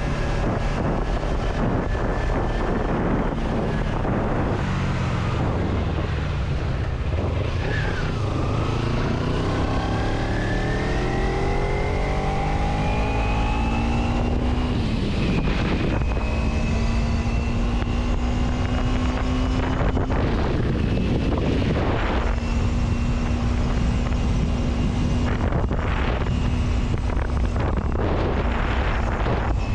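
Road vehicle running under way, with a steady low rumble and wind noise; its engine note rises as it accelerates, from about a quarter of the way in to the middle, then holds steady.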